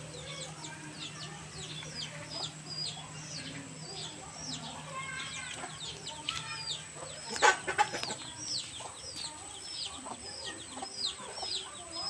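Chicks peeping over and over, short high downward-sliding peeps several a second. A brief sharp clatter of knocks about halfway through is the loudest sound.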